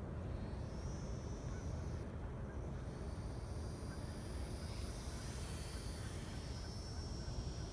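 Faint high-pitched whine of the micro RC warbird's small electric motor and propeller in flight, rising in pitch about half a second in and then holding steadier, over a steady low rumble of wind on the microphone.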